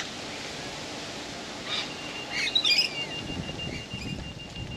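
Birds chirping, with a short burst of calls about two seconds in, over steady outdoor background noise. A thin, steady high tone holds from about two seconds in to the end.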